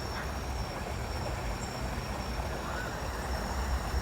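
Steady rushing of water from a waterfall on a crazy golf course, an even noise with low rumble.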